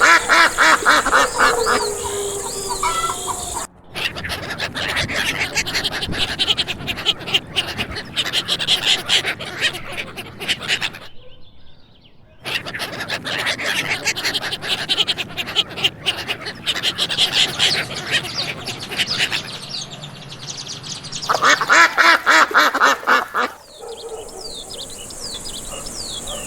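Ducks quacking, many calls in quick succession and overlapping, in several clips joined by abrupt cuts.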